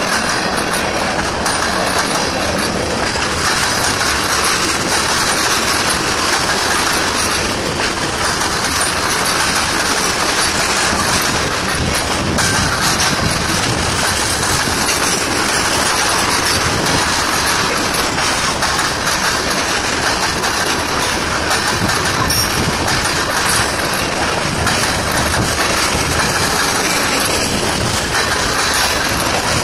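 Freight train cars rolling past at close range, a loud, steady noise of steel wheels running on the rails.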